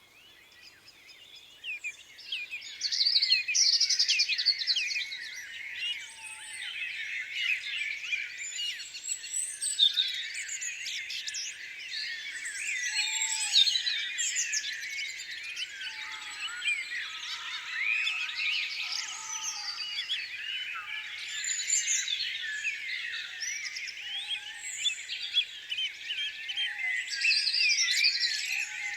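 A chorus of many small songbirds chirping and singing at once, a dense mass of high, quick, overlapping notes. It builds up from near silence over the first couple of seconds.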